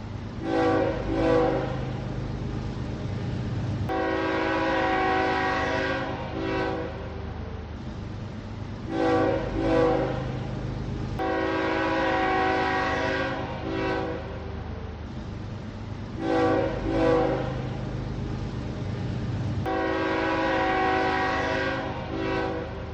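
Locomotive air horn sounding a repeated signal: two short blasts, one long blast and one short blast, three times over. A steady low rumble of the moving train runs beneath.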